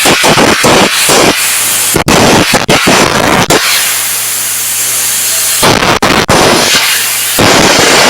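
Air carbon arc gouging: a carbon electrode arc with a compressed-air jet blowing out molten metal, a loud crackling hiss full of sharp pops. The arc breaks off for an instant several times, with a steadier, smoother hiss for a couple of seconds in the middle.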